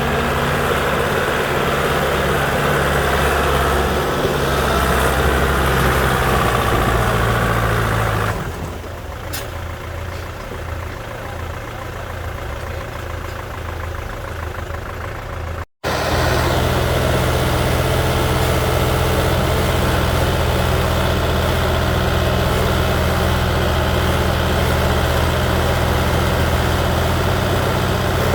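The diesel engine of a heavy earth-moving machine runs steadily. About eight seconds in it drops lower and quieter for several seconds. After a brief cut it is loud and steady again.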